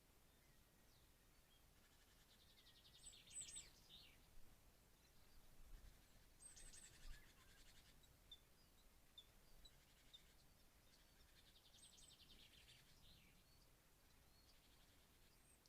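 Songbird singing faintly: three short, rapid trilled phrases that each open with high notes, with single high chirps between them.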